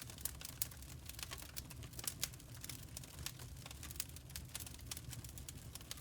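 Wood fire crackling: dense, irregular small pops and snaps over a low steady rumble.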